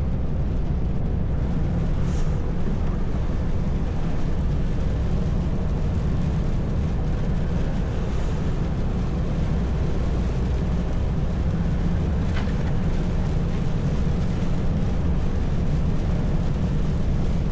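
Heavy truck's engine and road noise heard from inside the cab while driving: a steady low drone.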